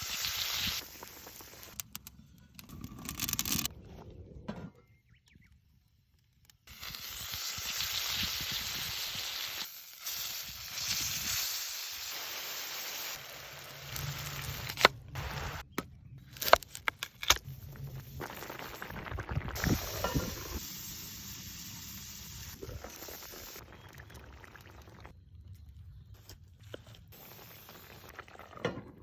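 Pork belly sizzling over a wood campfire, with the fire crackling, in several cut-together stretches of steady hiss. There is a brief silent gap about five seconds in, and a few sharp knocks and clicks later on.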